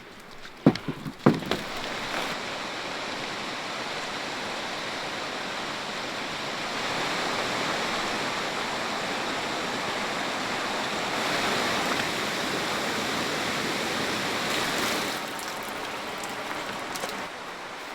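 Steady rushing of water, with two sharp knocks within the first second and a half.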